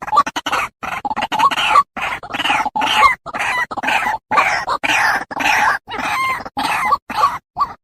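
Birds calling in short bursts, several a second, each cut off abruptly by a brief silent gap.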